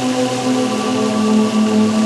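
Ambient electronic music: held synthesizer pad chords, the lower notes sliding to a new chord partway through, over a steady rain-like hiss.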